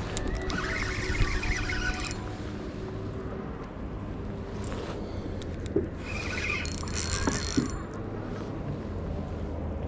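Fishing reel being worked in bursts with a hooked white bass–striped bass hybrid on the line, its gears and drag giving a whirring, clicking sound about half a second in and again around the seven-second mark, over a steady low hum.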